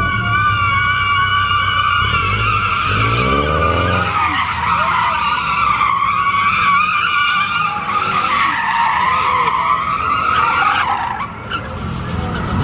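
A car's rear tires squeal continuously as it spins donuts, the squeal wavering in pitch. The engine revs underneath, climbing about three to four seconds in. The squeal weakens and breaks off near the end.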